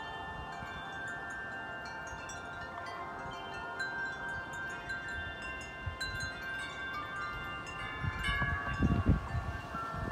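Wind chimes ringing, many overlapping notes sounding on and off as the wind moves them. About eight seconds in, gusts of wind start buffeting the microphone in loud low rushes.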